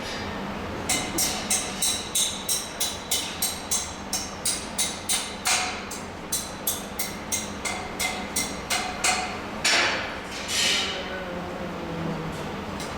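A hammer tapping on metal in a quick, even series of light strikes, about three a second for some eight seconds, followed by two short scraping hisses.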